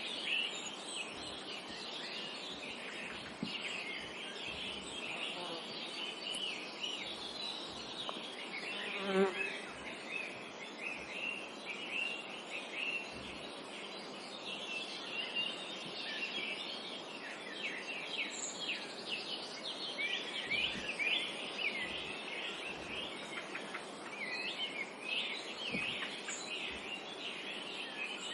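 Many small songbirds chirping and trilling together without a break, over a soft outdoor hiss. About nine seconds in, a flying insect buzzes briefly close by.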